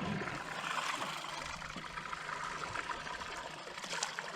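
Shallow river water rippling and trickling steadily.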